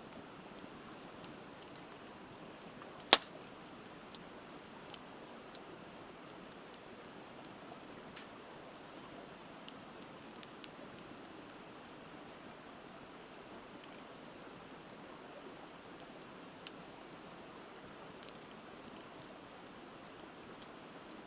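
Wood fire crackling with scattered small pops and one loud, sharp pop about three seconds in, over the steady rush of a river.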